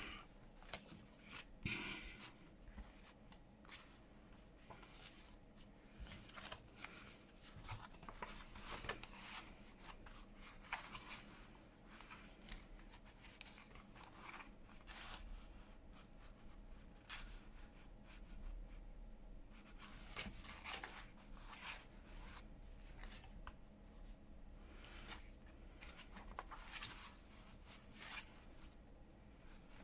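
Faint, intermittent rustling and shuffling of paper and card as handmade junk journal pieces are handled, picked up and laid down, with scattered soft taps.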